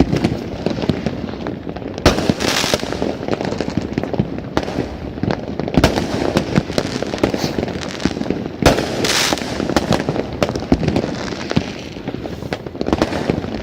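Many fireworks going off at once: a continuous crackle of small bangs, with louder booms about 2, 6 and 9 seconds in, some followed by a bright crackling hiss.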